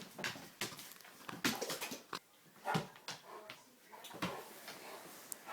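A large dog making short, irregular vocal sounds while playing rough, like a puppy, with some scuffling noises between them.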